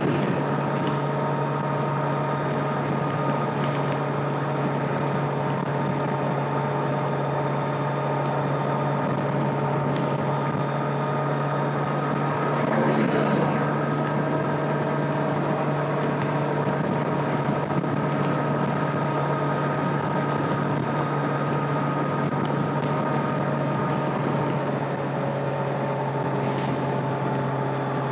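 A 2025 Kawasaki Z900's inline-four engine and stock exhaust running at steady revs while cruising, with wind noise. A brief louder rush of noise comes about halfway through.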